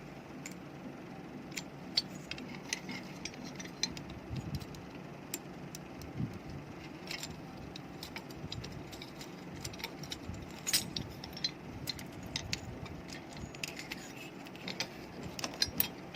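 Scattered light metallic clicks and clinks of small tools and metal parts being handled, over a steady low hum.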